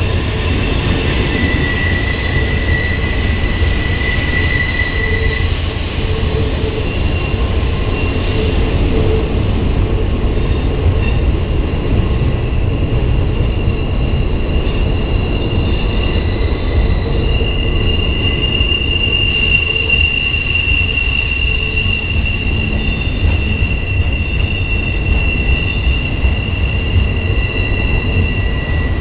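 Freight train of loaded flatcars rolling past on the curve with a steady low rumble, its wheels squealing in high steady tones that come and go, strongest in the second half.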